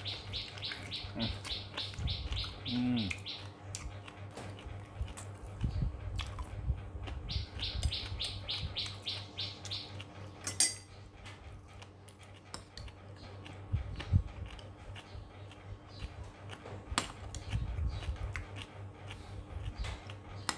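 A bird chirping in quick repeated high notes, about five or six a second, in two bouts of a few seconds each. A spoon clinks and scrapes against ceramic bowls and a plate, loudest about ten and fourteen seconds in.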